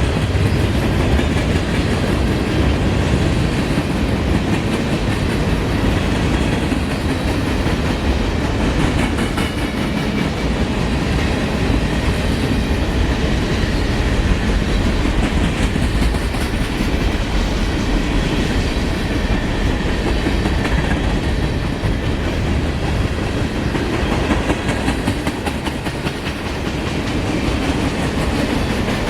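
Freight cars of a long CSX freight train rolling past, a steady rumble with wheels clicking over the rail joints.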